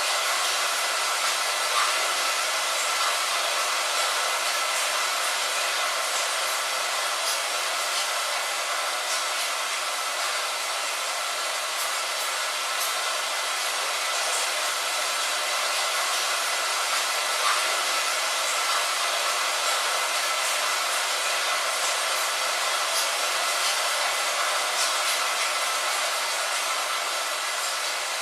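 Steady rain: an even hiss with faint, scattered drop ticks and no change in intensity.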